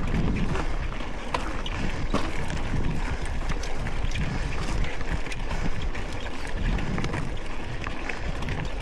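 Mountain bike in motion: steady wind on the microphone and tyre rumble, with many short clicks and rattles throughout.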